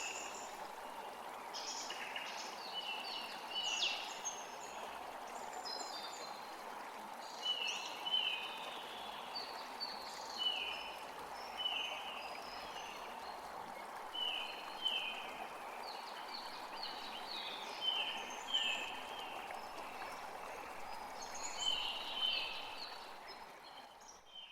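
Forest creek flowing steadily while songbirds call over it in short, repeated downward-sliding chirps, often in pairs. The sound fades out near the end.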